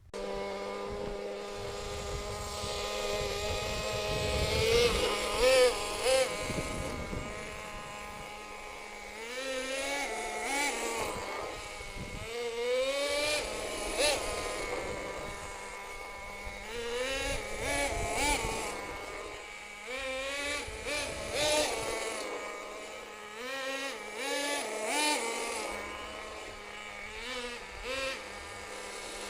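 Force .18 nitro engine of a Reely Predator 240 RC truck running, its pitch rising and falling again and again as the throttle is opened and closed.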